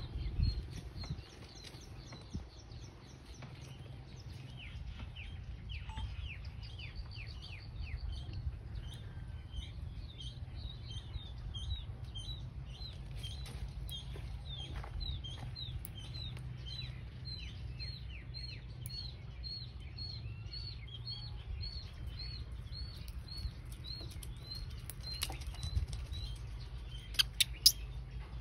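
A bird calling over and over with short high chirps, quicker at first, then about two a second, over a steady low rumble. Near the end come a few sharp clicks of a steel nail clipper cutting the monkey's nails.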